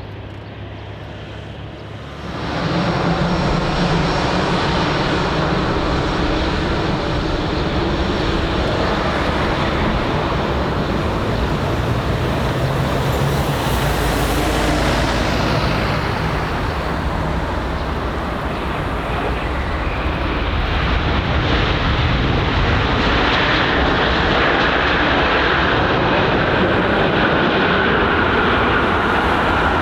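Boeing 787-9 Dreamliner's jet engines as the airliner comes in to land, a steady loud rush that jumps up about two seconds in. Midway a high-pitched whine sweeps downward as the aircraft passes, and the noise swells again over the last third.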